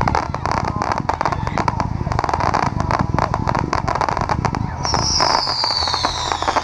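Dominator zipper cake (Rip, Rock and Roll) firing a rapid, dense string of shots and crackling pops. About five seconds in, a high falling whistle joins them.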